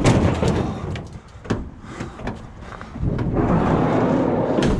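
A stuck van door being pulled and rattled: a loud clatter at the start, a couple of sharp knocks, and a longer scraping rattle in the last two seconds.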